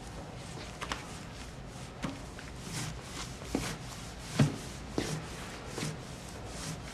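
A few soft, scattered knocks and clicks over a low steady room hum, about six in all, the loudest about four and a half seconds in.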